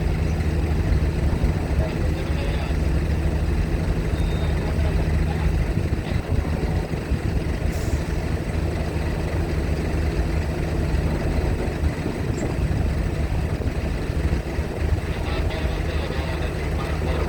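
Heavy vehicle or ship engines running steadily at idle, a continuous low hum with no change.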